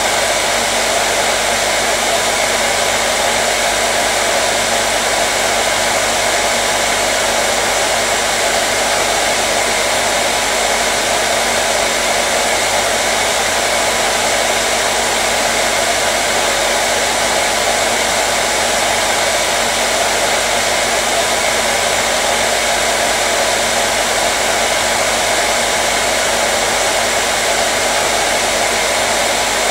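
Hair dryer running steadily, an even whooshing rush of blown air and motor with a faint steady hum, unchanging throughout.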